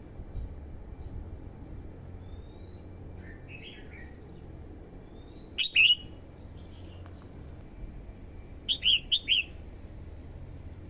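Red-whiskered bulbul singing in short, separated phrases. A faint phrase comes first, then a loud, sharp two-note call about halfway through, and a quick run of three or four notes near the end.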